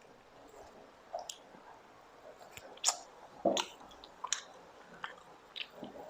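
Close-miked mouth chewing, with a scatter of crisp crunching clicks; the two loudest come about three seconds in, half a second apart.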